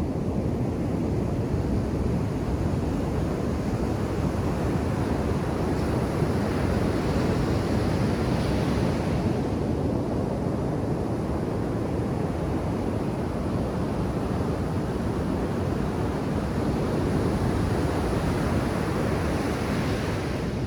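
Ocean surf breaking on the beach: a steady low rumble of waves, with the hiss of a wave washing in swelling about a third of the way through and again near the end.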